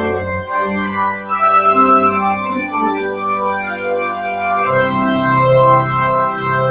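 Organ music: sustained chords with a moving upper line, and a deep held bass note coming in about two-thirds of the way through.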